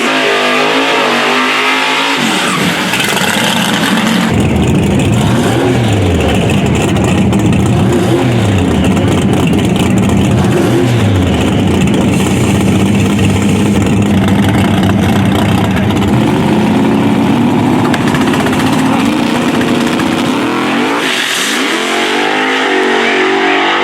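Drag-race cars at full throttle down the track: a loud surge of engine noise a few seconds in, with the engine note falling and climbing several times, then another engine revving up near the end.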